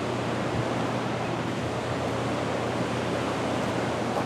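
Steady rush of a flooded river running high and fast after heavy rain.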